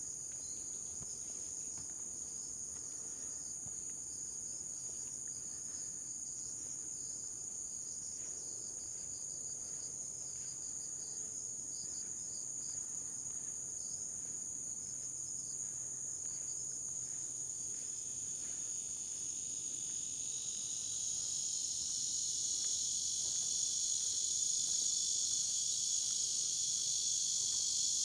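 Steady high-pitched chorus of insects singing, growing louder and fuller about two-thirds of the way through, with faint regular footsteps on the trail underneath.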